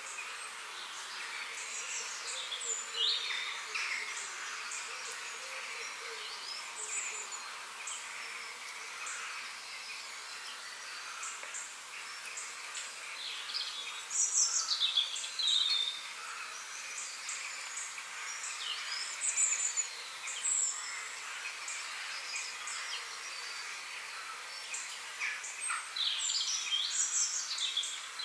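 Several songbirds singing and calling in short chirps and whistles, louder a few times, over a steady drone of insects.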